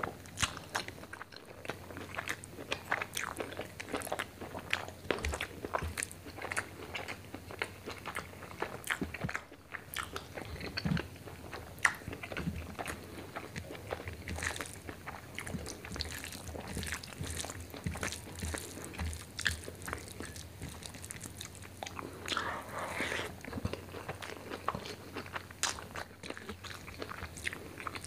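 Close-miked chewing and wet mouth sounds of someone eating rice with chicken liver and gizzard curry by hand: many small smacks and clicks, with soft squishing as fingers mix rice into the curry.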